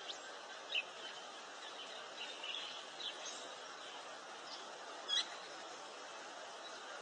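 Birds chirping in short, scattered high chirps, the loudest about a second in and just past five seconds, over a steady background hiss.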